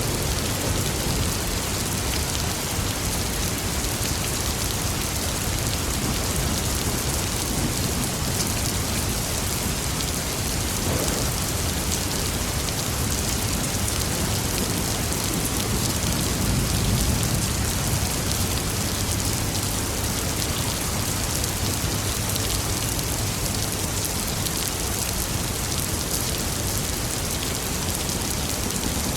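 Steady rain falling in an even hiss, with a soft low rumble of thunder swelling briefly near the middle.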